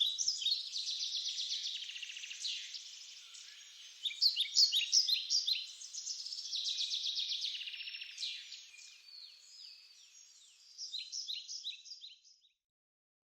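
Small birds chirping and trilling: fast runs of short high notes in bouts, cutting off abruptly near the end.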